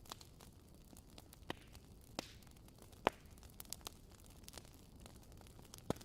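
Wood fire crackling in a fireplace: irregular sharp pops and snaps over a low, steady rumble, the loudest pops about three seconds in and just before the end.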